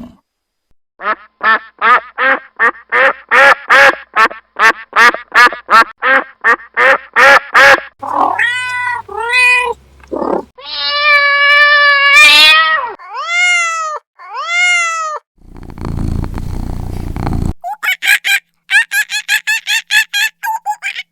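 A string of animal calls, among them cat meows: first a fast run of short, repeated high calls, then several drawn-out calls that rise and fall. After that comes a low, rough sound, and near the end another quick run of short calls.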